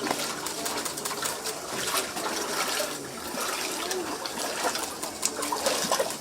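Floodwater splashing and trickling with irregular sloshing clicks, and a bird calling faintly now and then.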